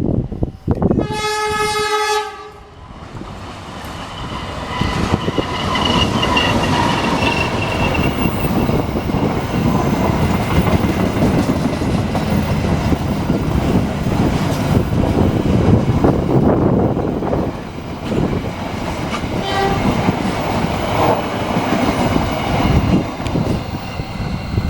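Diesel locomotive horn sounding one blast, about a second long, near the start. Then the passenger train passes close by: a loud rumble of wheels clicking over the rail joints, with faint wheel squeal on the curve.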